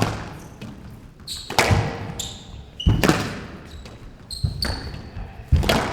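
A squash ball is struck hard by rackets and smacks off the court walls in an echoing rally, about five shots a second and a half apart. Short squeaks of court shoes come between the shots.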